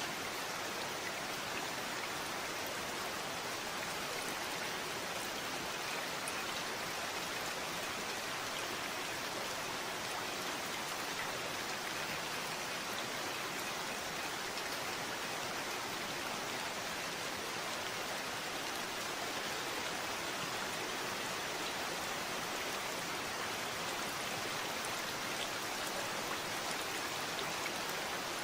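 Steady rainfall: an even hiss of rain with drops pattering on a surface, unchanging throughout.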